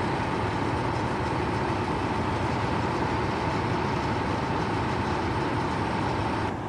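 Heavy machinery on a pile-driving job running steadily: a continuous mechanical rumble with a constant high whine and no separate hammer blows. It cuts off abruptly just before the end.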